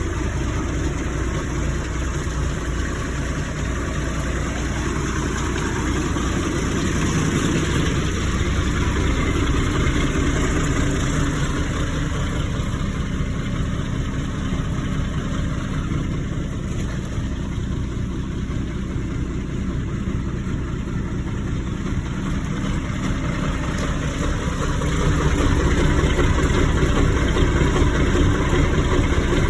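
International DT466 inline-six diesel idling steadily after a cold start in freezing weather. It gets somewhat louder about 25 seconds in.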